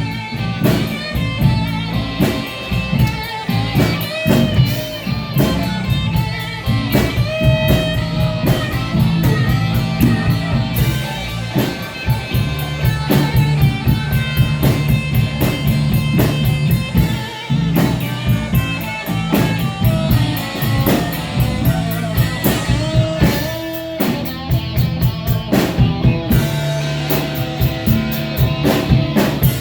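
Band playing instrumental blues-rock: electric guitar lead over bass and a drum kit with a steady beat.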